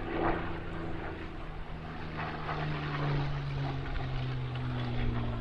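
Spitfire Mk IX's Rolls-Royce Merlin V12 engine droning steadily in a flying display, its pitch dropping a little about three seconds in as the aircraft passes.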